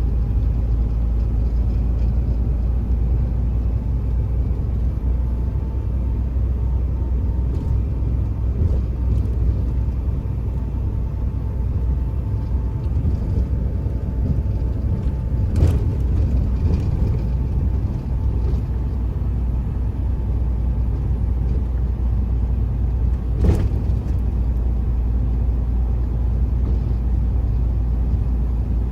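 Truck driving along the road: a steady low rumble of engine and road noise, with two sharp knocks, one about halfway through and another some eight seconds later.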